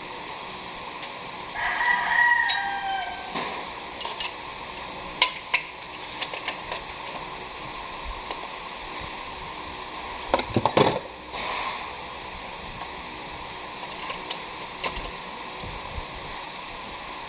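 A rooster crows once about two seconds in. Scattered sharp metallic clicks and knocks follow, like tools being handled, with a louder clatter about ten seconds in, over a steady background hum.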